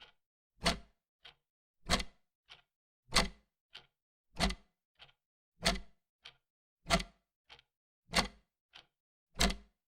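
Clock ticking in an even tick-tock rhythm: a loud, sharp tick about every one and a quarter seconds, each followed about halfway to the next by a softer tock, with silence between.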